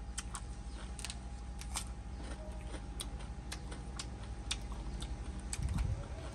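A person chewing crisp fried food close to the microphone: scattered sharp crunching clicks, a few each second, over a steady low hum.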